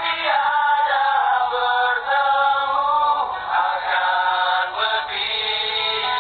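A song with a voice singing a melody over music.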